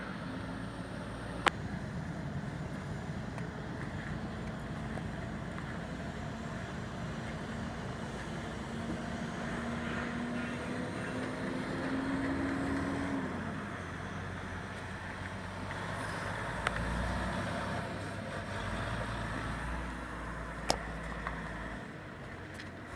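A 1976 Ford one-ton dump truck's engine running. Its pitch rises slowly to a peak about thirteen seconds in and then drops back, with a few sharp clicks along the way.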